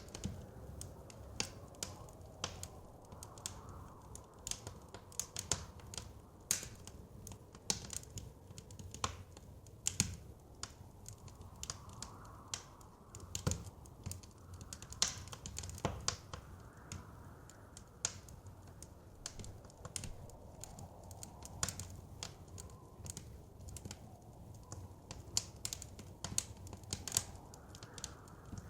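Wood fire crackling, with irregular sharp pops and snaps several times a second over a low steady rumble. Faint blizzard wind swells and fades now and then behind it.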